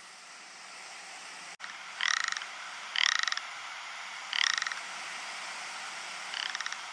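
Ptarmigan giving four short, rattling calls, each under half a second, spaced one to two seconds apart over a steady background hiss. A brief dropout in the sound comes just before the first call.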